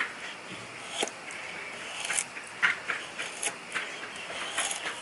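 Knife shaving thin curls off a stick of softwood kindling to make a feather stick: short, irregular scraping strokes, a second or so apart and coming closer together near the end.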